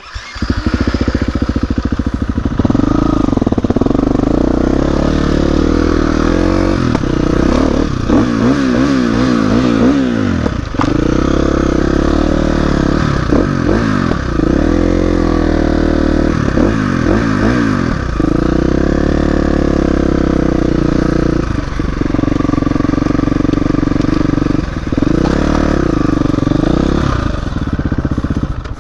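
Dirt bike engine running as the bike is ridden, the revs rising and falling again and again as the throttle is opened and closed.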